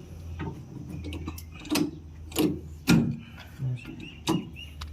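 A series of about five sharp knocks, roughly every half second to second, over a steady low hum, as parts are handled during tractor gearbox repair work.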